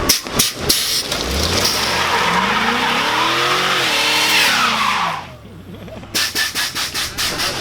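Car engine revving with tires squealing during a burnout, the pitch rising and then falling before it cuts off about five seconds in. Near the end a quick run of sharp knocks follows.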